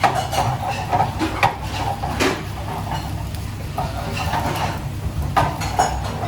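Metal kitchen utensils clinking and knocking against pots and pans, a handful of separate strikes over a steady low hum.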